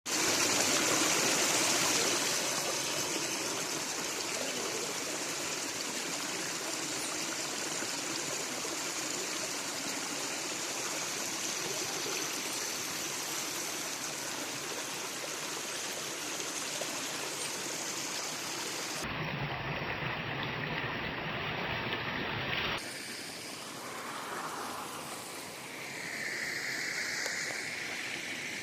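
River water rushing steadily. The sound changes abruptly twice near the end.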